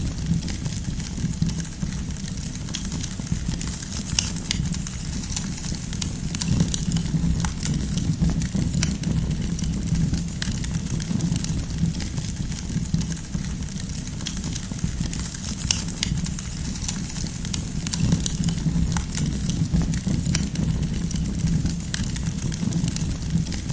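Campfire of burning firewood crackling, with many sharp irregular pops over a low steady rumble of the flames.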